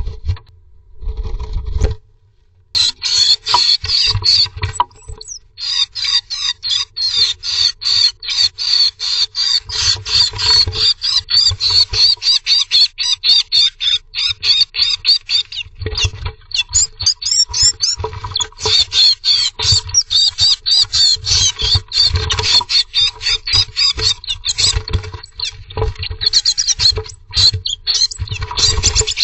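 Blue tits fighting over a nest: rapid, repeated high-pitched chirping calls, about three or four a second, mixed with dull thumps and scuffling. The calling starts about three seconds in, after a short pause.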